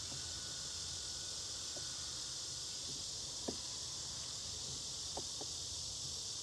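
A steady, high insect chirring or hum, with a few faint light clicks about halfway through.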